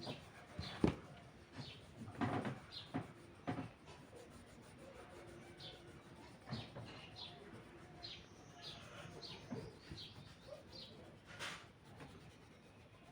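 Small birds chirping over and over in short, high notes, with a few knocks and rustles of handling, mostly in the first few seconds and once again later.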